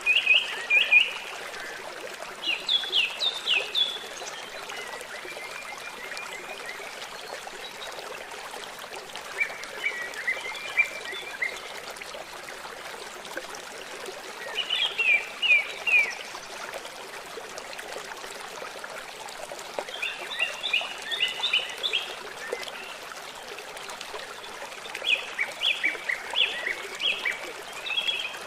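A songbird singing short phrases of rapid, repeated high chirps, one phrase every four to six seconds, over the steady rush of a trickling stream.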